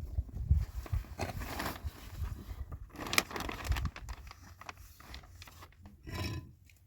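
Irregular scraping and rustling with scattered light knocks, as of things being handled.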